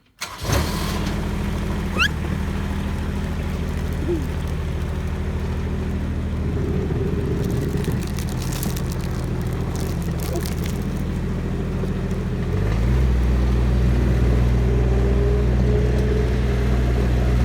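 Tractor engine running loud and steady, then revving up to a higher speed about twelve seconds in and holding there.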